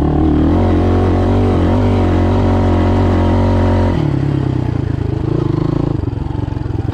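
Motoland Legend motorcycle engine pulling steadily under throttle while ridden. About four seconds in the throttle closes and the revs drop suddenly to a lower, pulsing run.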